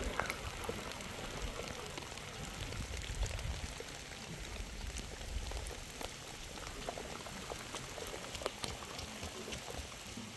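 Rain falling steadily, with scattered drops ticking sharply on a nearby surface.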